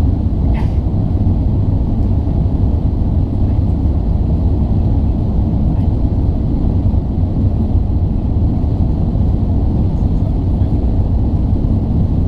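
Steady low rumble of cabin noise inside an Airbus A380 airliner, even in level with no change in pitch.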